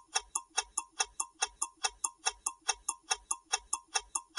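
Quiz countdown-timer sound effect: a clock ticking quickly and evenly, about five ticks a second.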